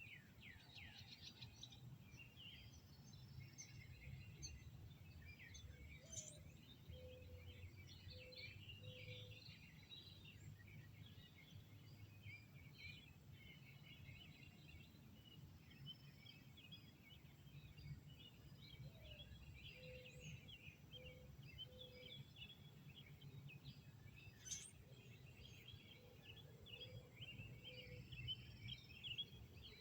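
Faint birdsong: many small birds chirping and twittering, with a low three-note call repeated three times. A steady low rumble runs underneath.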